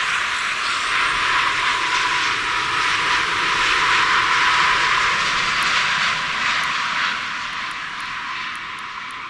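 Boeing 787-9 jet engines making a loud, steady rushing noise as the airliner arrives, fading over the last couple of seconds.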